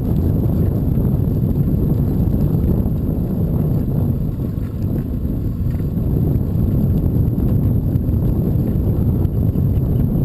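Wind buffeting the microphone while riding a bicycle: a steady low rumble, with a faint thin high whine underneath.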